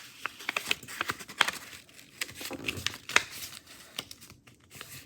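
A sheet of paper being folded and creased by hand into a paper airplane, with irregular crinkles and sharp crackles.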